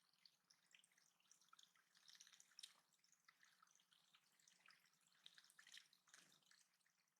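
Faint water dripping and trickling in a small backyard bird-pond water feature, as scattered soft drips and patters.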